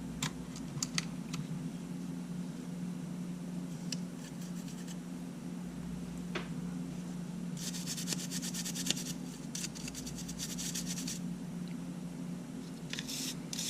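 Small clicks and scratchy rubbing of tools and parts being handled inside a disassembled Sony A7 camera, with a few seconds of rapid scratching about halfway through and again near the end. A steady low hum sits underneath.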